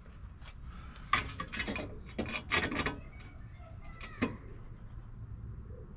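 Sheet-metal repair panel scraping and knocking against the car body as it is held up and shifted for a test fit: a handful of short scrapes and clanks, the busiest stretch about two to three seconds in.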